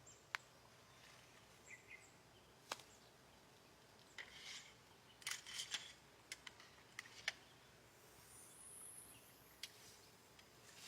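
Faint jungle ambience: scattered sharp clicks and short chirping calls, with a thin high-pitched whine about eight seconds in.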